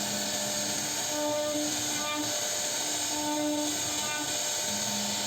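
CNC router running as it carves wood: a steady high-pitched hiss with motor tones underneath that switch between a lower and a higher pitch every second or so.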